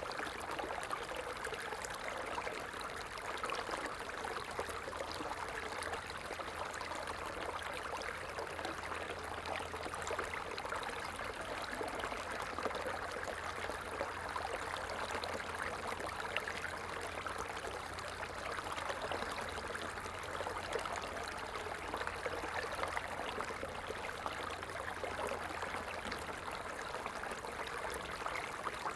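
A stream of water flowing, with a steady, even rush and trickle.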